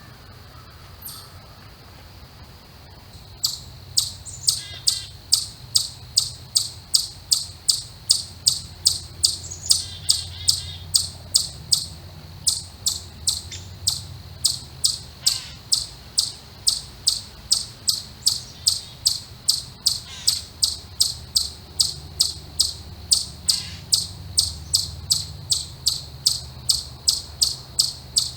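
A small animal's sharp, high chip call, repeated very evenly about twice a second, starting about three seconds in. Fainter chirps come in now and then.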